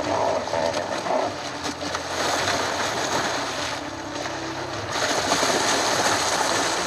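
Water splashing and churning as two bull hippos clash in a shallow pool.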